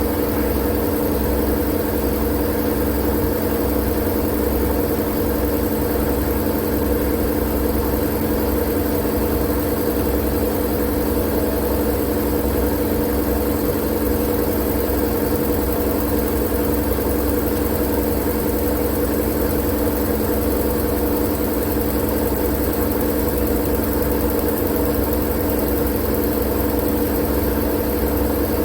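Steady, unchanging white-noise drone with a low hum and a few held tones in it, like a machine running evenly, played as a sleep sound.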